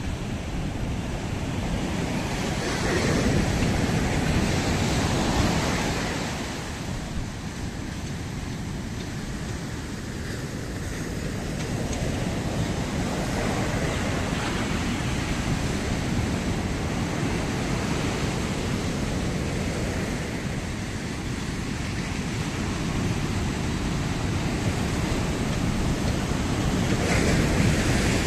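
Ocean surf washing onto a beach, swelling and easing in slow waves every several seconds, with some wind noise on the microphone.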